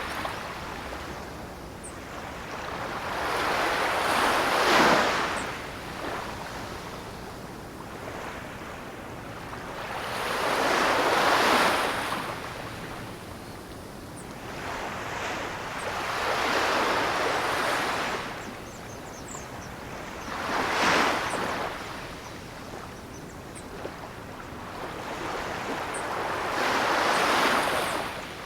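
Ocean waves washing in, surging about every five or six seconds with a softer steady wash between.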